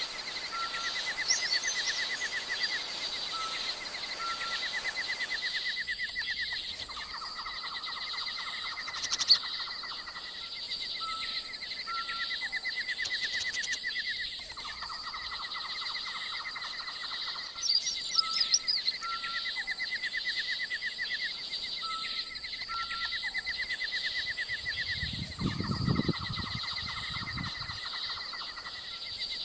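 Bird calls: short chirps and trills recurring every few seconds over a steady rapid trill and a continuous high-pitched hum. A brief low rumble comes near the end.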